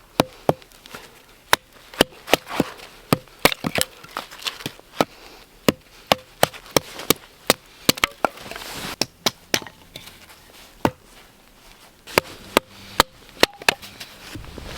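Axe chopping wood: a long, irregular run of sharp strikes, about two a second, some coming in quick pairs.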